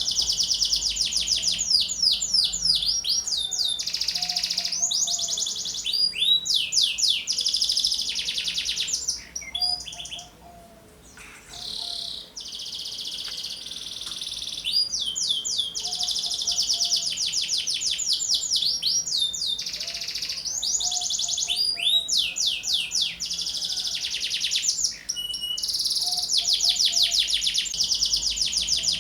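Young domestic canary singing almost without a break, in long, fast, high trills and rolls, with a brief lull about ten seconds in. It is a trigger song of the kind played to tutor or stir other birds into singing.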